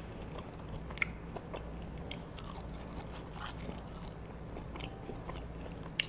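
A person chewing McDonald's French fries close to a clip-on microphone: quiet, soft chewing with scattered small mouth clicks, the sharpest about a second in and another near the end as a fry goes into the mouth.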